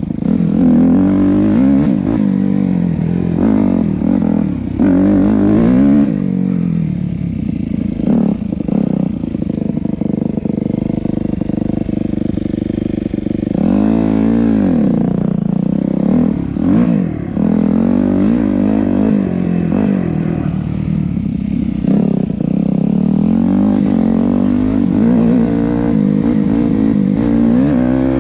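Yamaha YZ250F four-stroke single-cylinder dirt bike engine being ridden, its pitch repeatedly rising and falling as the throttle opens and closes, with one sharp rev up and back down about halfway through.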